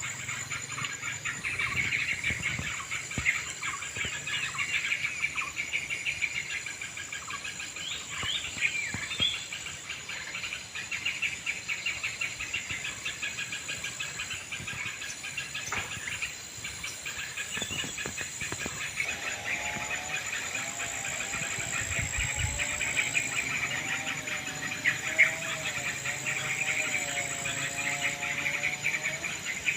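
Many wild birds chattering and calling rapidly and noisily over a steady high insect drone. From about two-thirds of the way in, a lower wavering tone joins them.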